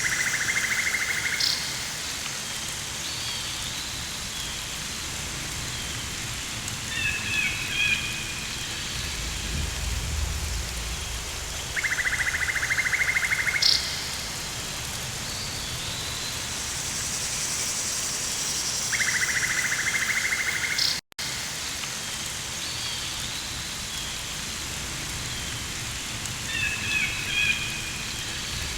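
Rainforest ambience: a steady hiss of rain, with three bouts of a rapid, buzzing, pulsed trill and a few short chirping calls from animals. The sound cuts out suddenly for a split second about two-thirds of the way in.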